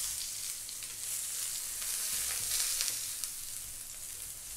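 Thick eggplant slices sizzling in hot olive oil in a grill pan, with light clicks of metal tongs as the slices are turned over.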